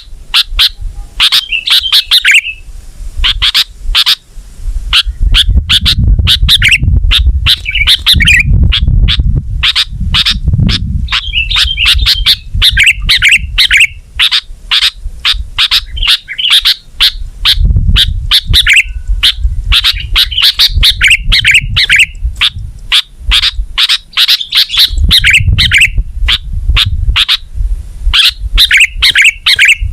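Sooty-headed bulbul (kutilang) singing loudly and continuously: rapid sharp chirps several a second, broken every second or two by bubbling, warbled phrases. A low rumble comes and goes underneath at times.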